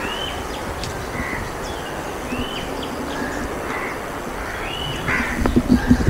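Birds calling: short, repeated calls, several of them arching up and then down in pitch, about one a second, over a steady hiss. Near the end come low bumps and rumble from the camera being handled.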